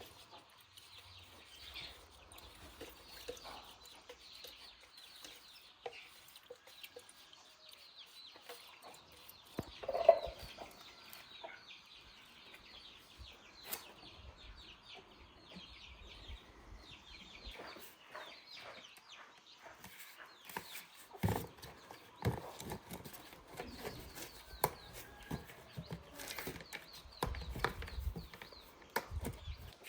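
Chickens clucking faintly, with one louder call about ten seconds in and scattered short knocks and taps in the last third.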